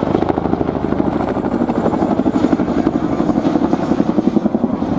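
Boeing CH-47 Chinook tandem-rotor helicopter in flight, its two rotors giving a loud, rapid blade chop that pulses in strength.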